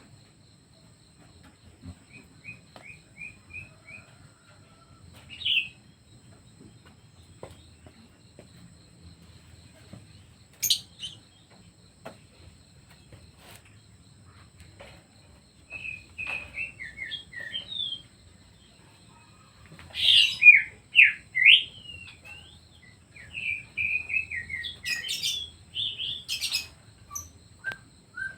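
Pet songbirds chirping in short bursts of quick calls, sparse at first and busier in the second half, with a few sharp clicks among them.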